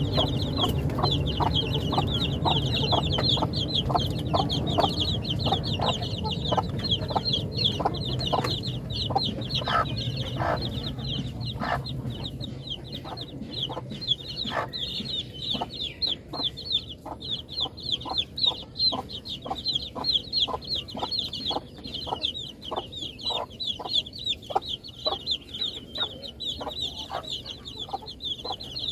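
A flock of baby chicks peeping continuously, many short high peeps overlapping each second, with lower short clucks mixed in. A low rumble in the background fades out about halfway through.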